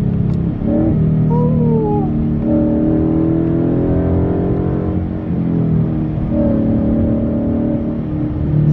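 Ford Mustang engine pulling hard through the gears. The revs climb and drop back at each gear change, about three times.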